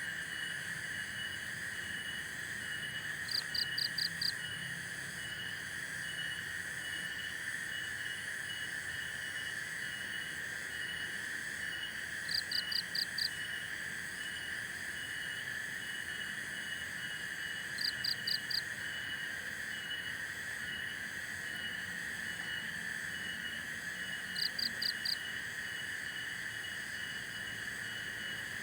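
Forest chorus of calling insects and frogs: a steady high trill with a softer call pulsing beneath it. Four times, a quick run of four or five sharp chirps stands out above the chorus.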